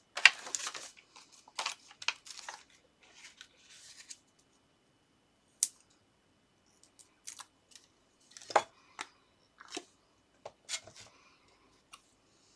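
Paper and card being handled and worked on a craft table: a few seconds of short rustles and scrapes, then a scattered run of sharp clicks and taps.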